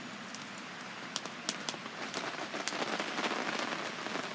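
Rain falling steadily, with individual drops striking close to the microphone as sharp ticks; it grows heavier about two seconds in.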